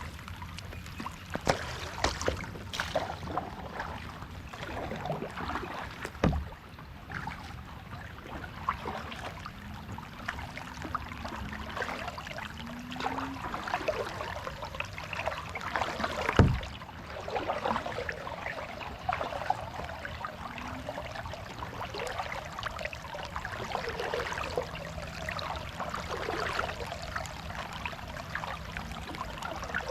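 Kayak paddle strokes: water splashing and trickling off the blades, with a few sharp thumps, the loudest about halfway through.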